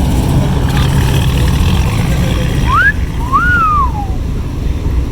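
Low, steady rumble of idling car engines in stop-and-go traffic. About three seconds in comes a loud two-part whistle: a short rising note, then a longer one that rises and falls.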